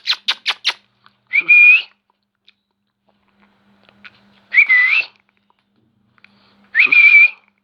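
A quick run of about six clicks in the first second, then three short shrill whistled calls a few seconds apart, each sliding up and then holding steady.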